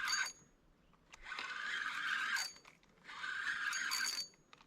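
Fishing reel being cranked in spurts of about a second each, a whirring with a faint ring near the end of each spurt, as line is wound in on a hooked fish, here a likely pike.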